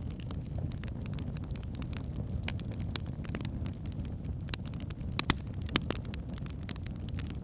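Wood fire burning in a fireplace: a steady low rumble of flames with frequent sharp crackles and pops from the logs, the loudest pops a little after five seconds and again near six seconds.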